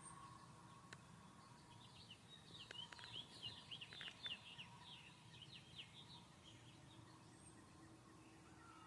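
Faint songbird chirping: a quick run of short twittering notes from about two to six seconds in.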